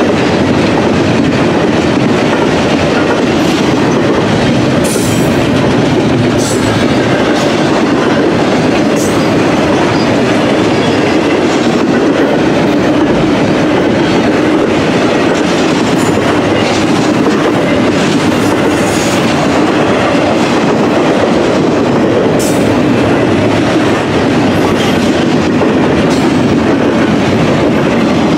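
Double-stack intermodal container train's well cars rolling past: a steady loud rumble of steel wheels on rail with clickety-clack and scattered sharp metallic clicks.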